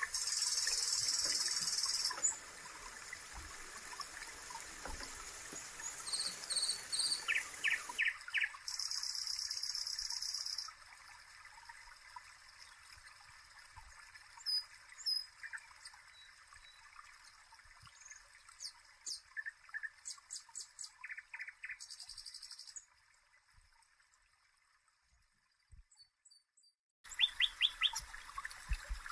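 Songbirds chirping and twittering in short, high, repeated calls and trills over a faint hiss. The birdsong drops almost to silence for a few seconds near the end, then starts up again.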